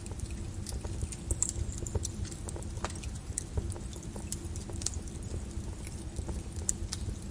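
Lava crackling and clinking, with irregular sharp pops and ticks over a low steady rumble.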